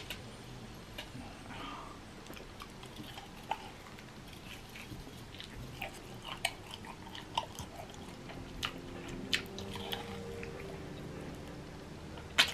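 A man biting and chewing fried chicken wings: small wet clicks and crunches scattered throughout, with one sharp, louder click near the end.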